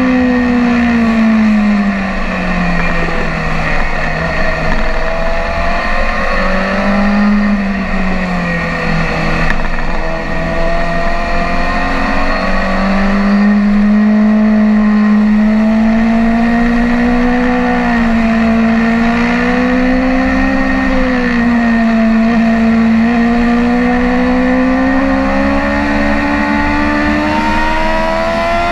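BMW S1000RR's inline-four engine heard onboard at track speed, its pitch falling twice in the first several seconds as the throttle closes, then climbing gradually under throttle for most of the rest, with a few brief dips.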